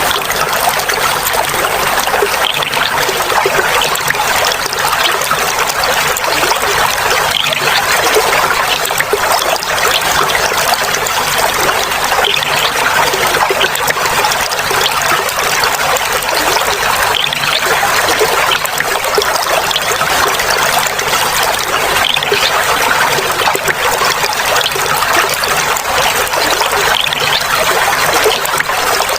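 Clear water trickling and gurgling steadily over a small cascade or stream, a continuous splashy flow with no pauses.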